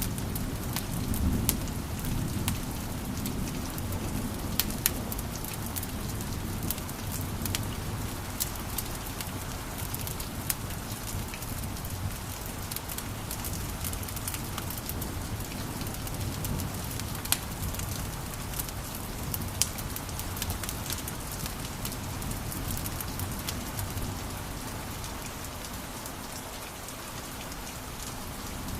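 Wood fire in a fireplace crackling, with frequent sharp pops and snaps over a steady low rush of flames.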